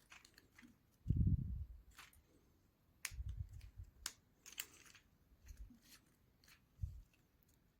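Small basswood model-kit parts being handled and fitted: scattered light clicks and taps with a few dull thumps, the loudest about a second in.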